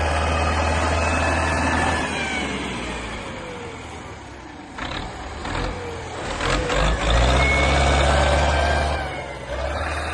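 Engine of a heavy tracked snow vehicle running, easing off about two seconds in and revving up again around seven seconds, with whining tones that slide in pitch. A few sharp knocks come between the two loud stretches.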